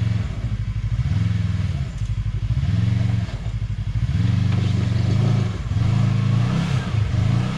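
Side-by-side UTV engine revving in short repeated bursts, its pitch rising and falling about once a second, as the driver blips the throttle to crawl the stuck machine off a rock.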